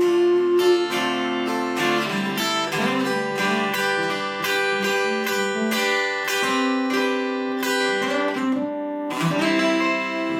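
Acoustic guitar strummed in a steady rhythm, the chords ringing between strokes, with a brief break in the strumming about nine seconds in.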